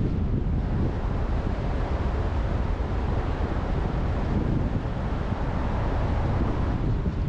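Car driving steadily at speed: an even rush of tyre and road noise with wind, heavy in the low end and unchanging throughout.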